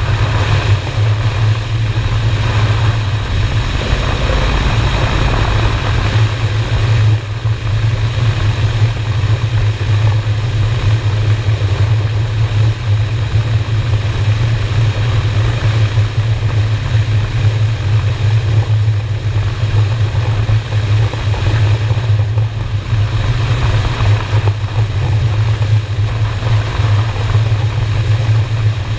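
Honda Shadow's V-twin engine running steadily at cruising speed, with a strong low, even drone and rushing noise over it.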